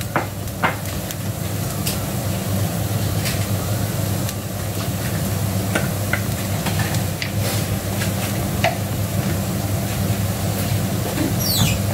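Chopped onions and garlic sizzling in butter and oil in a stainless steel skillet, sautéing, with a wooden spatula scraping and tapping the pan in scattered clicks as they are stirred. A steady low hum runs underneath.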